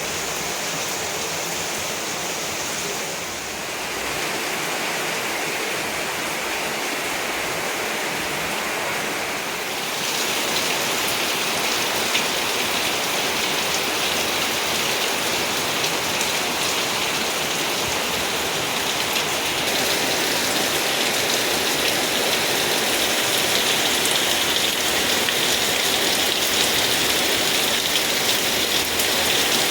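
Steady rain falling, an even hiss of drops that gets a little heavier about a third of the way in and again around two-thirds of the way through.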